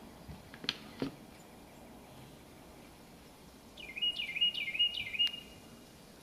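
A bird calling a quick run of four repeated notes, each dipping then rising, about four seconds in, over faint outdoor background. Two sharp knocks come about a second in.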